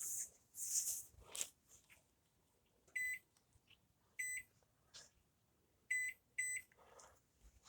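Microwave oven beeping four short, high beeps, the first two over a second apart and the last two in quick succession, after a few brief rustling sounds in the first second and a half.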